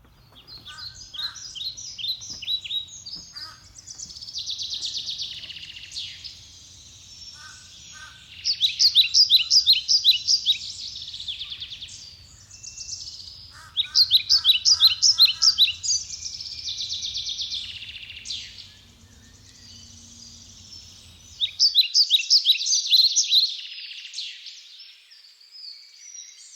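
Songbirds singing: bouts of rapid, high, trilled notes, loudest about a third of the way in, around the middle and near the end, over a low steady rumble that stops about four-fifths of the way through.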